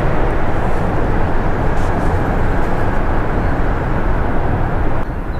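Steady low rumble and rushing noise of a fishing boat moving slowly while trolling, dropping slightly in level near the end.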